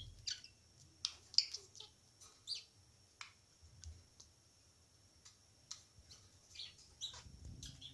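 Small pet bird giving short, scattered chirps and clicks, a dozen or so spread unevenly across the few seconds.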